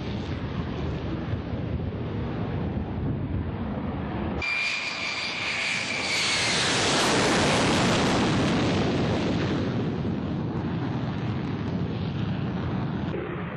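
Boeing X-32A jet fighter engine noise: a low rumble at first, then, after a sudden change about four seconds in, a closer pass with a whine falling slightly in pitch, swelling to its loudest around the middle and fading away.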